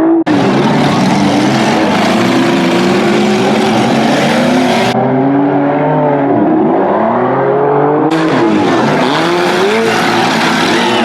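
Engines of old trash race cars revving hard around the track, several engine notes rising and falling over and over as the cars accelerate and back off.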